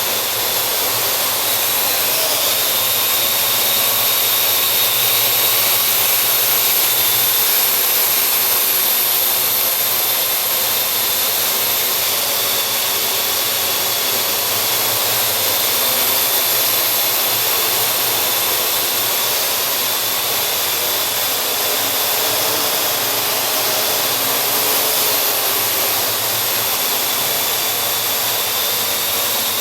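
Parrot AR.Drone quadcopter's four electric motors and propellers whining steadily in flight, the pitch drifting up and down a little as it is flown.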